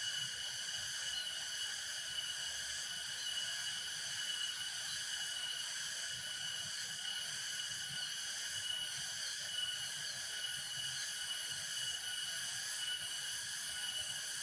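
Steady insect chorus of crickets or similar insects: several high, unbroken trilling tones that hold evenly without pausing.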